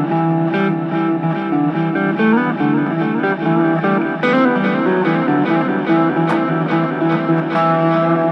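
Electric guitar, a Fender Telecaster, played through a Boss DD-3 delay pedal: picked notes repeat as echoes and pile up into a dense, steady layer of overlapping tones.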